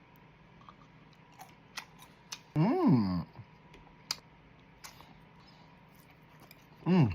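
A person eating, with sparse small clicks and smacks from the mouth, a hummed "mmm" rising and falling a little under halfway through, and a shorter falling hum at the very end.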